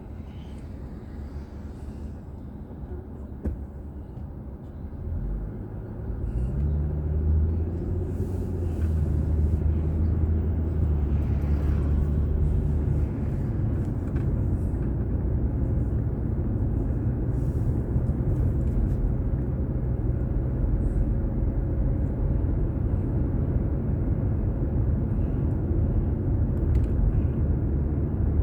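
Car engine and road noise heard from inside the car. It is lower at first, then about five to seven seconds in the engine note rises as the car pulls away, and it settles into a steady low drone while driving.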